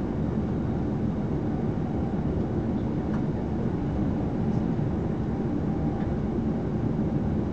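Steady low rumble of a passenger train running at speed, heard from inside the carriage: wheels on rail and car body noise, with a freight train running alongside on the next track.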